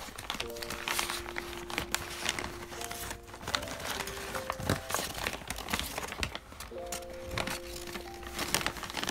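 White wrapping paper crinkling and rustling as it is unwrapped by hand, over background music with held notes.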